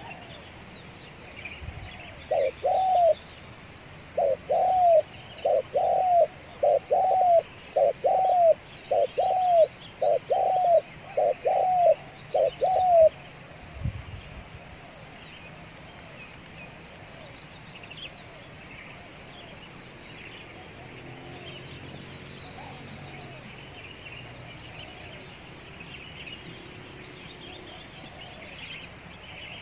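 Spotted dove cooing: a run of about ten loud, evenly spaced coos, roughly one a second, stops about halfway through, and fainter coos carry on after that. A steady high insect buzz runs underneath.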